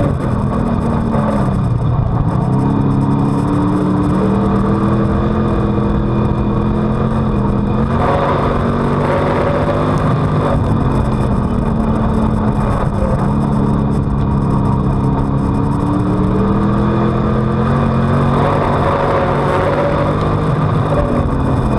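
Dirt-track street stock race car's V8 engine heard from inside the car, its pitch dropping as the throttle is lifted and climbing again under power, several times over, with a constant rush of noise underneath.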